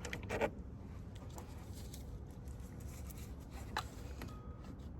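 A few faint clicks and taps of hand work on the water pump pulley and its bolts: two near the start and one a little before four seconds in.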